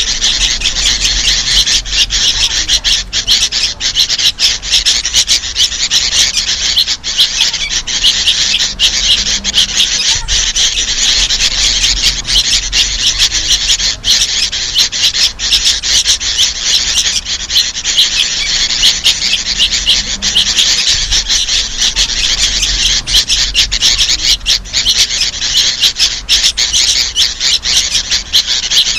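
Dense, unbroken, raspy chatter of sooty-headed bulbuls: adult calls mixed with the harsh begging calls of young birds, layered into a bird-trapping lure recording.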